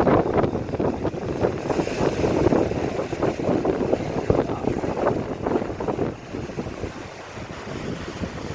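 Wind buffeting the microphone in gusts, easing about six seconds in.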